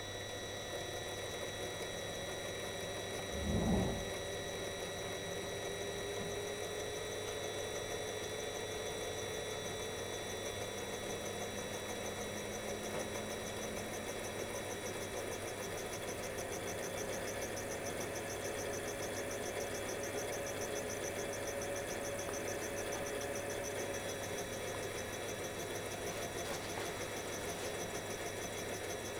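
The cargo ship Gry Maritha's diesel engine running steadily, its hum holding several constant tones with a mid tone that slowly shifts in pitch. A brief, loud low rumble comes about four seconds in.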